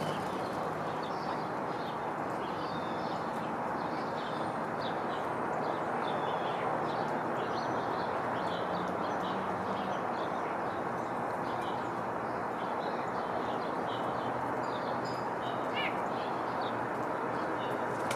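Small songbirds chirping in many short, high calls throughout, over a steady outdoor background hiss.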